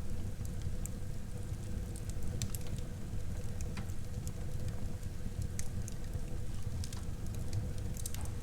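Wood fire burning in a fireplace, with a steady low rumble of the flames and irregular sharp crackles and pops of the burning wood.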